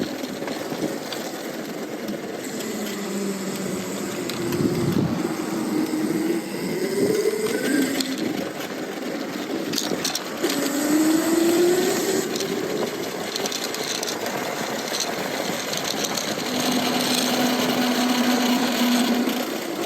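Lightning Rods electric drive motor on an e-bike whining under way, its pitch rising and falling with speed several times and holding steady near the end, over tyre and wind noise.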